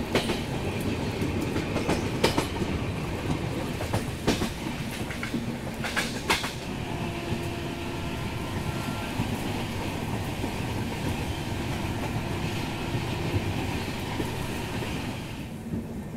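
Express train running at speed, heard from an open coach doorway: a steady rumble of wheels on the track, with a few sharp knocks over rail joints in the first six seconds.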